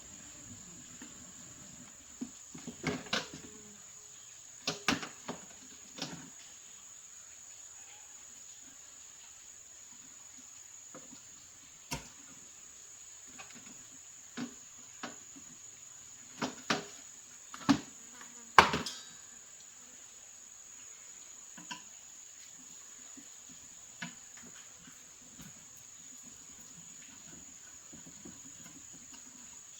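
Scattered clicks and knocks of small parts and tools being handled during an appliance repair, in loose clusters with the loudest knock about two-thirds of the way through, over a steady high-pitched tone in the background.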